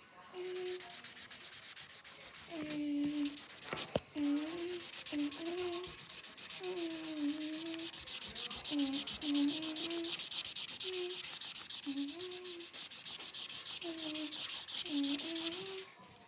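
Felt-tip marker rubbed quickly back and forth on paper, colouring in: a steady scratchy hiss of fast, closely spaced strokes. Under it, a faint wavering low tone comes and goes.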